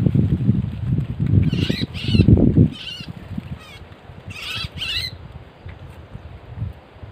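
Sooty-headed bulbuls giving short bursts of harsh chattering calls, several times in the first five seconds. Heavy rustling and flapping runs under the calls and stops about two and a half seconds in.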